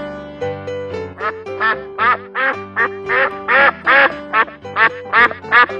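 Duck quacking over light background keyboard music: about a dozen short quacks in quick succession, starting about a second in.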